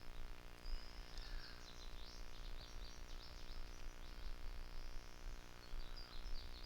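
Small birds chirping in quick runs of short, high notes, over a low rumble.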